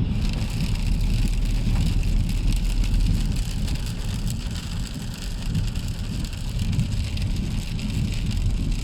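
Heavy rain pelting the car, heard from inside the cabin, over the low rumble of the car driving. The rain hiss rises sharply right at the start and stays heavy.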